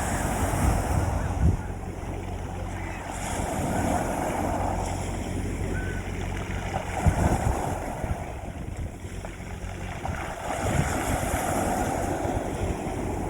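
Sea waves breaking on a beach, the wash swelling and fading about every three to four seconds, with low thuds as they crash, over a steady low hum.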